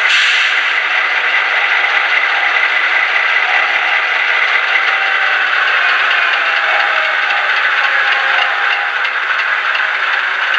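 Model trains running on a layout's track, a steady mechanical rattle and clatter.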